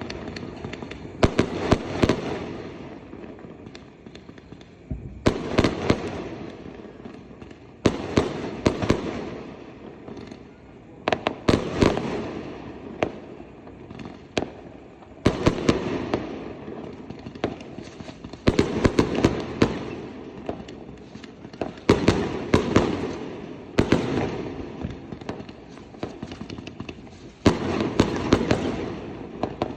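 Fireworks and firecrackers (mercun) going off in repeated volleys: a cluster of sharp booming bangs about every three seconds, each trailing off in a rolling echo.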